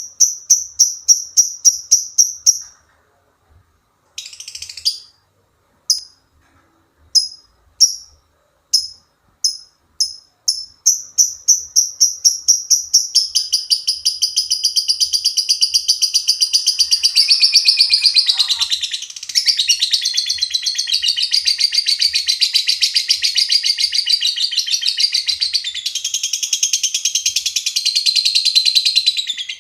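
Lovebird giving a string of sharp, high chirps, spaced out at first, then speeding up about halfway into a long, continuous, rapid chattering trill: the 'ngekek' song that lovebird keepers prize.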